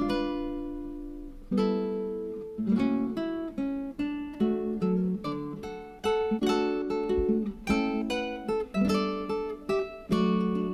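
Background music: acoustic guitar plucked and strummed, chords ringing and decaying one after another.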